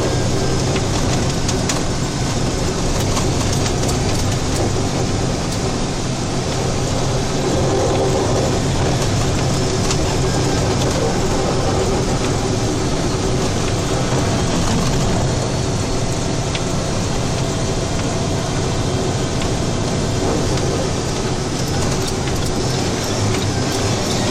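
Steady engine and road noise of a state plow truck heard inside its cab while driving, with a low engine hum under a broad rushing noise and a few faint ticks.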